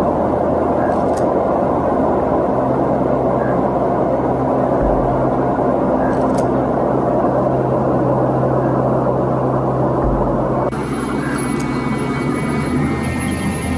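Steady drone of aircraft engines running. About ten and a half seconds in, the sound changes abruptly: it gets slightly quieter and thinner, with faint high steady tones added.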